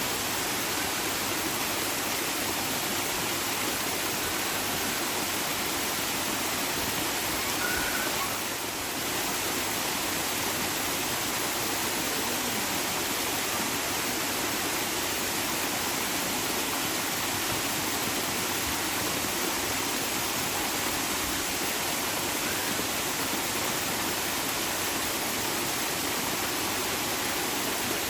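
Flowing water making a steady, continuous rush, with a brief slight dip in level about nine seconds in.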